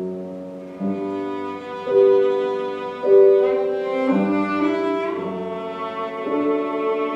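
Live classical music: a bowed string instrument plays a melody of held notes that change about once a second, with piano accompaniment.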